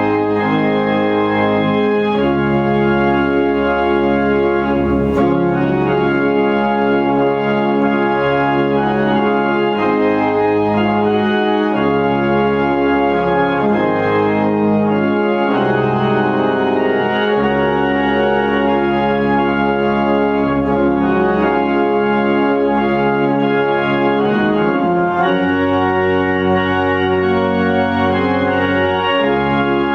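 Organ playing slow, sustained chords, each held for a few seconds before moving to the next, with a steady bass line beneath.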